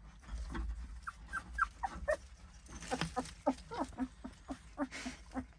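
A dog whimpering: a few short high whines, then a quicker run of short, lower whimpers about three a second.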